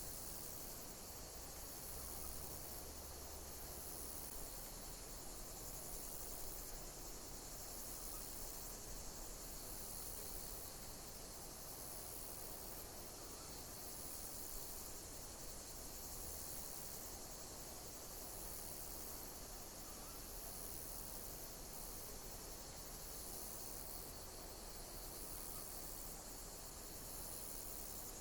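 Insects chirping: a high-pitched chirp repeating about every one and a half seconds over a steady hiss.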